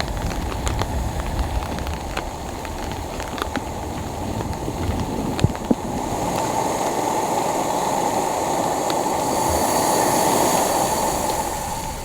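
Long roll of thunder from an approaching storm, a low rumble that swells from about halfway through and eases near the end, over rain ticking on a tarp.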